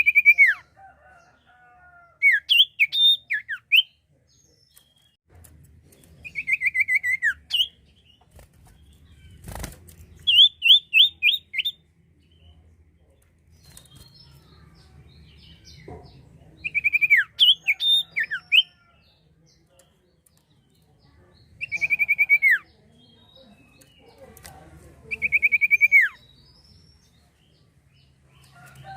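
A sirtu, a small Indonesian songbird, singing short bursts of quick, high notes that slide downward, one phrase every few seconds. A single sharp knock comes about ten seconds in.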